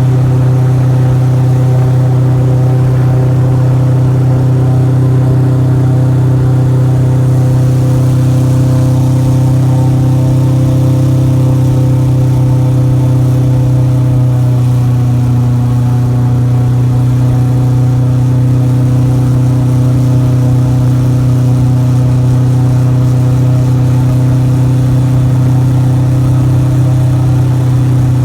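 Airboat engine and propeller running at a steady, loud drone, with a small shift in pitch about halfway through.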